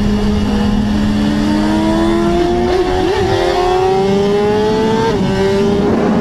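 Superbike engine at high revs, its pitch climbing steadily for about four seconds, then dropping suddenly about five seconds in as it shifts up a gear.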